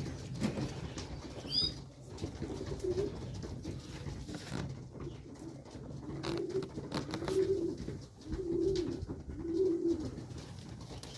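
Pigeons cooing: low, soft coos, a few scattered at first and then a run of four in quick succession in the second half. A brief high chirp sounds once near the start.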